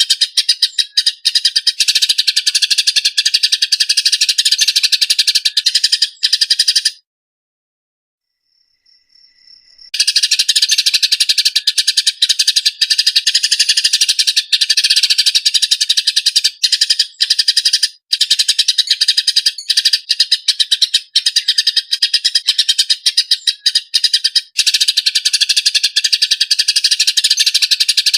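Eurasian tree sparrows giving fast, harsh, tightly packed chattering chirps, the fighting calls used as a training recording for songbirds. The stream breaks off for about three seconds a quarter of the way in, then resumes.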